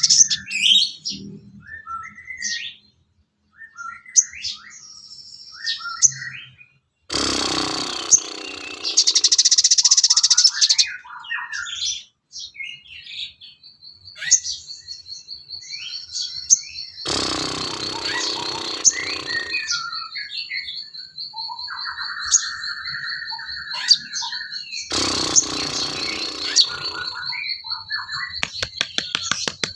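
Songbird calls used as tutoring material: many short chirps and whistled glides, broken by three loud harsh chattering bursts. From about halfway a steady, high, pulsing trill runs on beneath them.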